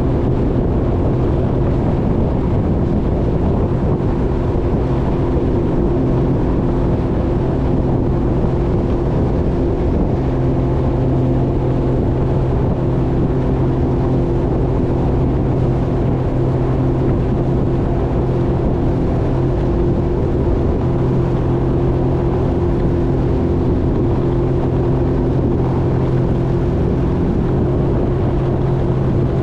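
Jet ski engine running at a steady, unchanging pitch.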